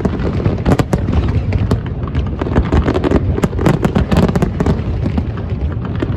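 Fireworks display: a rapid, continuous barrage of bangs and crackling pops over a steady low rumble.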